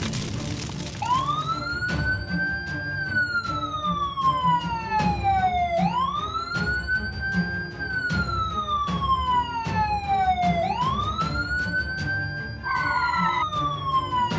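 A wailing siren, each wail rising quickly and then falling slowly over about three seconds, repeating about every five seconds over background music with a steady beat. A short horn-like tone sounds once near the end.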